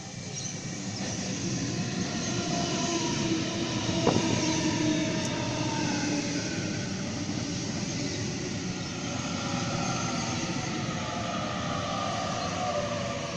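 Double-deck electric passenger train passing close by, its wheels rumbling on the rails, growing louder over the first few seconds. High whining tones run through it and slowly fall in pitch over the second half, with a single sharp click about four seconds in.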